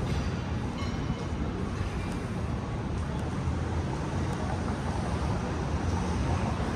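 Steady city street noise: a continuous low rumble of traffic.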